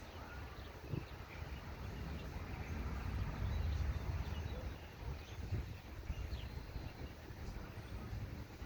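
Birds giving short, faint chirps over a low outdoor rumble that swells for a moment a few seconds in.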